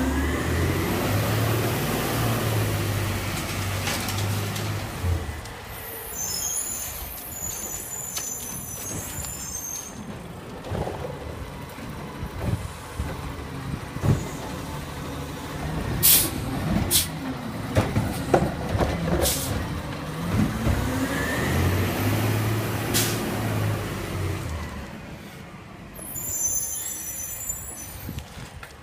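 Garbage truck collecting yard waste: the diesel engine revs up twice with a rising whine as it works the hydraulics, air brakes hiss, and a run of sharp bangs comes between the two revs.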